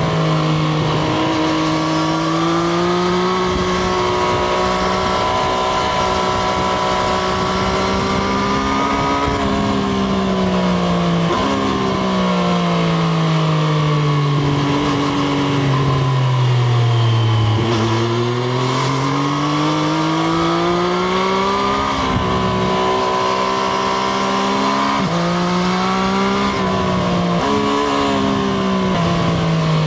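Triumph Street Triple RS 765 cc inline three-cylinder engine on the move, its note holding, rising and falling with the throttle and gear changes. It slows to a low note about halfway through, then pulls up again with a few quick shifts near the end.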